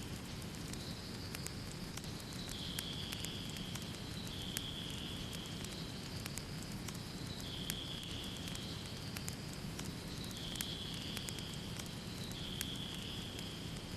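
Wood fire in a fireplace crackling, with scattered sharp pops over a steady low rumble of flames. A soft higher hiss comes and goes about every two seconds.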